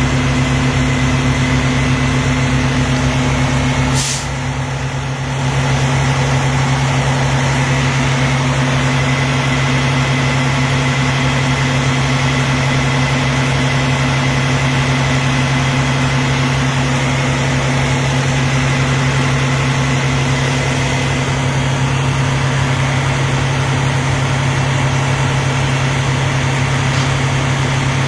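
Heavy truck's diesel engine idling steadily. A brief sharp noise about four seconds in.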